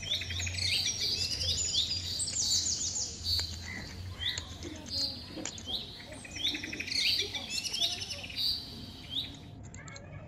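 Birds chirping and tweeting: a dense run of quick, repeated sweeping chirps that stops just before the end.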